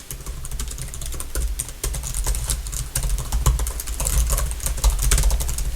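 Fast, continuous typing on a computer keyboard, a quick run of light key clicks, over a low rumble.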